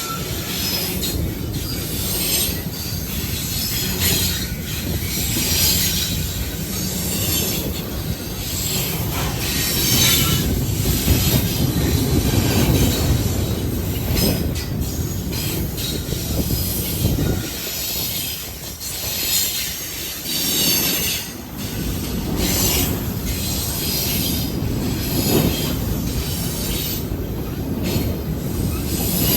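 Train cars rolling past with a steady rumble of steel wheels on rail, and wheel squeal rising and falling every second or two.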